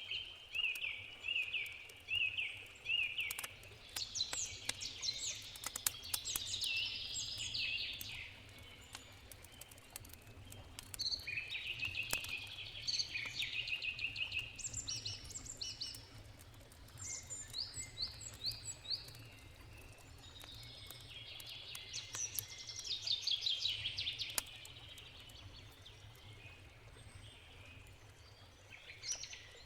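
Songbirds singing repeated trilling phrases, with a crackling campfire popping now and then (most often in the first third) and a faint steady rush of a river underneath.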